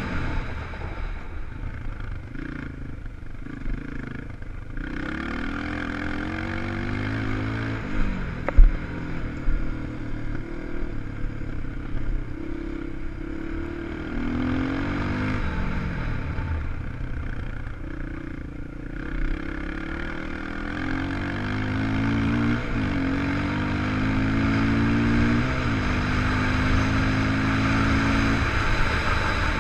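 250 cc four-stroke single-cylinder enduro motorcycle being ridden hard off-road, its engine pitch climbing and dropping again and again as the rider opens and closes the throttle and shifts. There is a sharp knock about eight seconds in.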